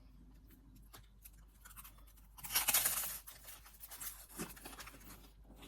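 Strawberry being eaten close to the microphone: a loud bite about two and a half seconds in, followed by softer, irregular chewing sounds.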